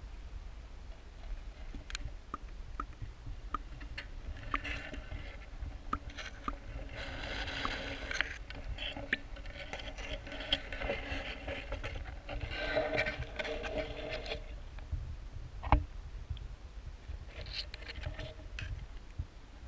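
Muffled underwater sound picked up through a GoPro's sealed waterproof housing held in a pond: a steady low rumble with scattered clicks, two stretches of louder scraping, rushing noise, and one sharp knock against the housing about three-quarters of the way through.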